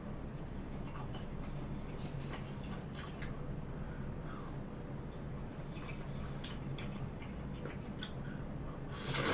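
A person chewing food with the mouth close to the microphone, with scattered small clicks, over a low steady hum. A louder, noisier sound comes just before the end.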